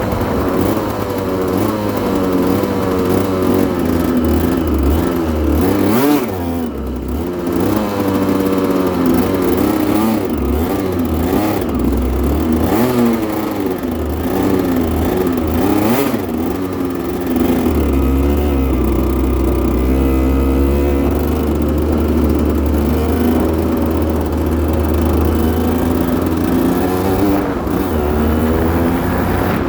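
Aprilia RS125's 125 cc single-cylinder two-stroke engine running and revving, its pitch rising and falling again and again.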